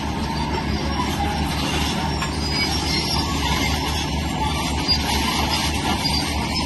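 Tracked earthmoving machinery at work: a steady diesel engine rumble under metallic squealing and clatter from steel crawler tracks.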